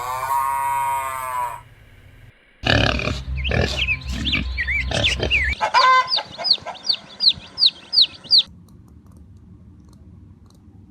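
A run of animal calls: first a drawn-out call that rises and falls in pitch, then a stretch of noisy calling with short chirps, then a quick series of about nine high, falling chirps.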